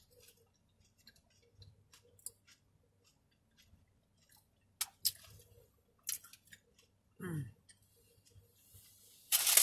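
Close-up chewing of a taco with scattered small mouth clicks and smacks. About seven seconds in there is a brief falling 'mm' from the eater. Near the end comes loud crinkling of the paper taco wrapper.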